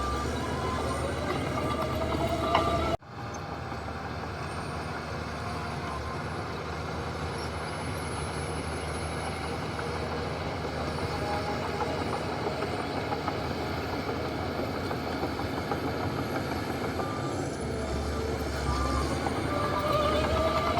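Diesel engines of heavy earthmoving machinery running, with a reversing beeper sounding in the first few seconds and again near the end, where an engine revs up. The sound cuts off abruptly about three seconds in and resumes as steady machinery noise.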